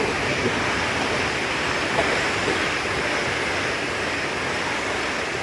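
Chinese high-speed train running past along the platform at speed: a steady rushing of wheels on rail and air that slowly fades.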